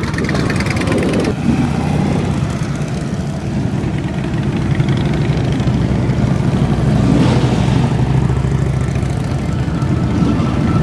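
Motorcycle engines running at low revs: a steady, continuous rumble.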